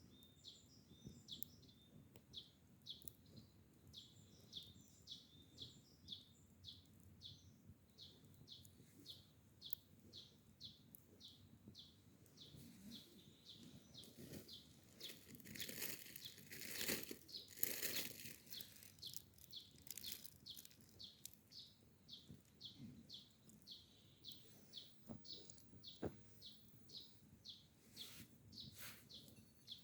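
Faint, steady run of short high chirps, about two to three a second, typical of a small bird calling repeatedly. A few seconds of rustling, crunching noise midway.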